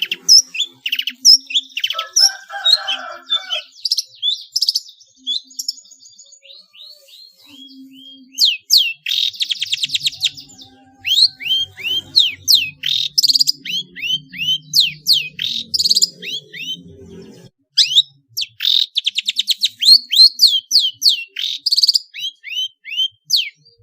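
Long-tailed shrike singing a fast, loud run of sharp chirps and rattling trills, its song filled with imitations of fighting house sparrows, white-rumped shama and other small birds.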